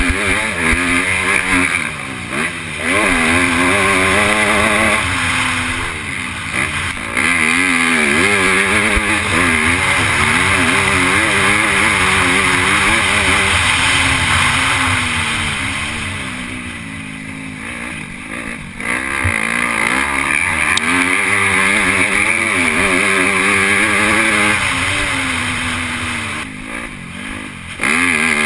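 MX2 motocross bike engine heard from on board, revving up and down hard under racing throttle, with the throttle chopped briefly about 2 seconds in, around 6 seconds, for a longer spell around 16 to 19 seconds, and again near the end.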